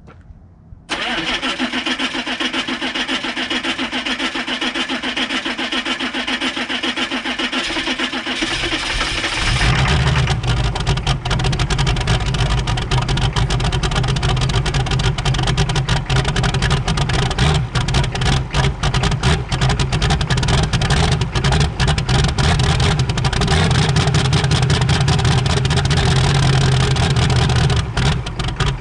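6.5-litre V8 diesel cold-starting: the starter cranks it steadily for about eight seconds before the engine catches and runs on.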